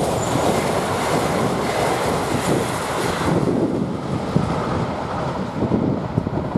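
Passenger train passing at speed, a loud rushing rumble that eases after about three seconds, with wind buffeting the microphone.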